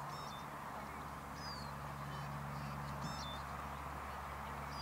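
Small birds chirping in short, high, falling calls every second or so, over a steady background hum.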